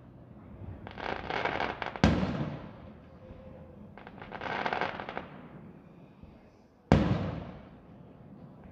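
Aerial fireworks display: two sharp shell bangs, about two seconds in and near seven seconds, each fading away over about a second. In between come two dense runs of small rapid pops from crackling stars, each lasting about a second.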